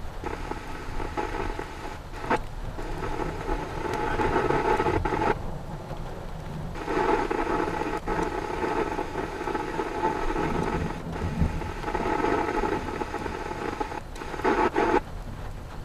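Radio scanner hissing and crackling with a muffled, narrow-band transmission that cuts out briefly around the middle, with sharp clicks and steady rain with low rumble underneath.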